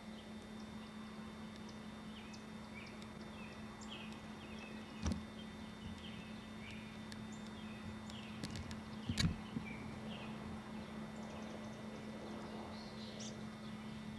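Small birds chirping over a steady low hum, with two sharp bumps about five and nine seconds in.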